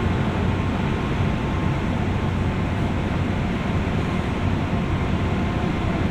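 Running noise heard inside a JR West 201 series electric commuter train, recorded in a motor car above its armature-chopper equipment: a steady rumble of wheels on rail and the bogie, with a low hum and no distinct clicks or changes.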